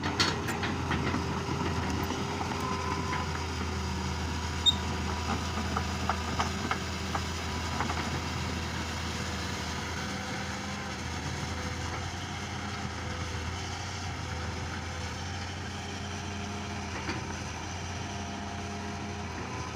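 Excavator's engine running steadily at work, with a few sharp knocks in the first eight seconds, the loudest about five seconds in.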